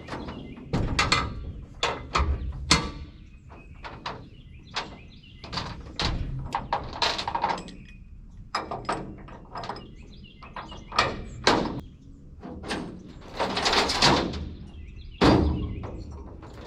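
A string of irregular knocks, thuds and clatters, some sharp and some with a short rattle after them, spaced unevenly through the stretch.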